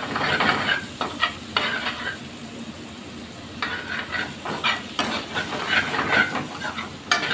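Sliced mushrooms frying in oil in a pan while a steel ladle stirs and scrapes them around. The stirring comes in bursts, with a short lull in the middle.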